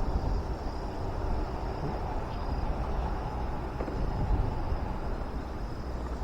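Wind rumbling on the microphone outdoors: a steady, uneven rumble with most of its weight at the very bottom, plus a faint high thin tone and a couple of light ticks.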